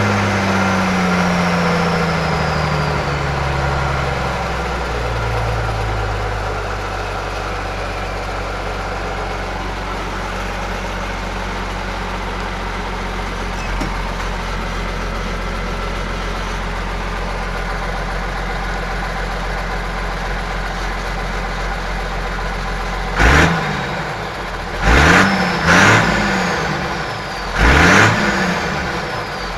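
John Deere 3650 tractor's six-cylinder diesel engine: revs fall back over the first few seconds, it runs steadily at low speed, then near the end the throttle is blipped four times, each rev rising and dropping quickly.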